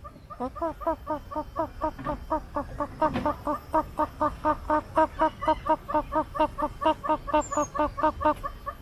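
A bird calling with a rapid, steady run of short, pitched nasal notes, about five a second, that goes on for several seconds and grows louder partway through.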